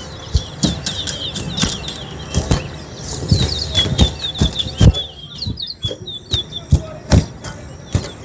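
Towa-towas (chestnut-bellied seed finches) chirping in quick, high, short notes, with repeated sharp knocks and flutters about twice a second.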